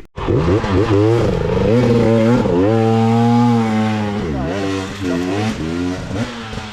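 Dirt bike engine revving hard under load, its pitch climbing and then held high for about a second and a half, followed by two quick dips and rises in revs before it eases off near the end.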